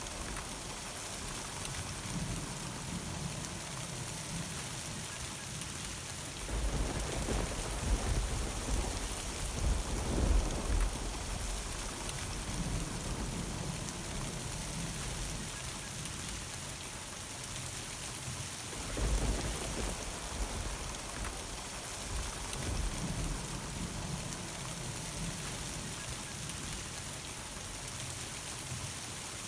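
Steady summer thunderstorm rain falling, with thunder rumbling twice: a longer roll about a quarter of the way in and a shorter one about two-thirds through.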